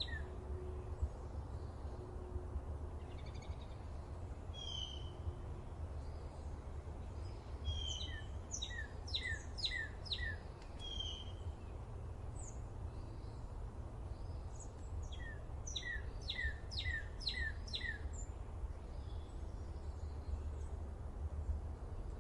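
Songbirds singing: two runs of quick, repeated down-slurred whistles, one a third of the way in and another past the middle, with scattered short chirps between. A steady low rumble lies underneath.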